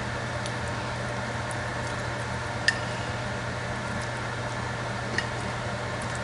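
Steady hiss over a low hum from the pot of sauce simmering on the stove, broken by two light clicks of a utensil against the pot as chicken is set into it.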